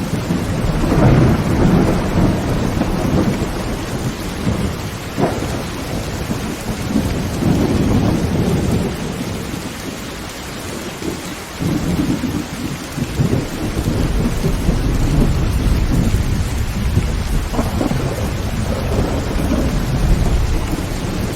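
Heavy rain pelting a tin tent roof, with thunder rumbling low and swelling and fading several times.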